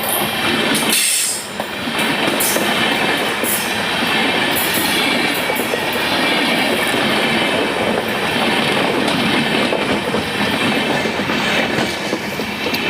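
Train running along the track: a steady rumble of wheels on rails, with short metallic clicks scattered through it.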